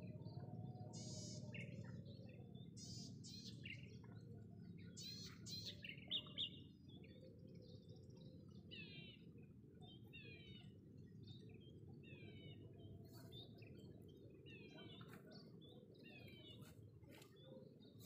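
Birds chirping outdoors: scattered high chirps, two short louder calls about six seconds in, then a falling chirp repeated roughly once a second. A low steady background rumble runs underneath.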